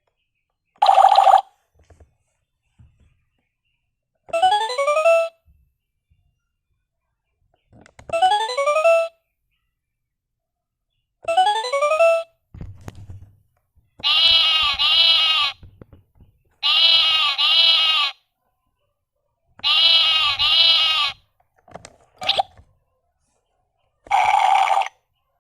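A run of separate electronic sound effects from a children's sound-learning toy, played one after another: a short tone, three rising sweeps in pitch a few seconds apart, a couple of dull thumps, then three warbling double pulses like a ringing telephone or a bleat, and a last short tone near the end.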